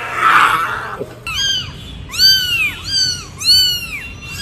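About a second of a harsh, breathy hiss from a cougar, then a kitten mewing: a string of short, high-pitched meows, each rising and then falling in pitch.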